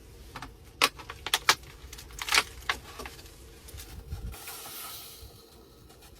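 Metal camp cookware clinking and knocking as a pot and utensils are handled: a quick run of sharp clicks over the first three seconds, then a brief hiss.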